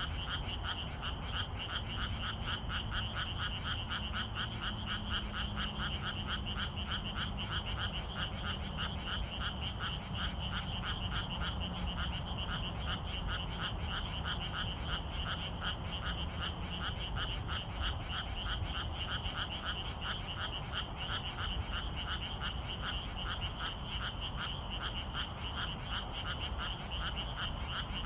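A chorus of frogs calling in a fast, steady pulsing rhythm over a continuous high-pitched drone.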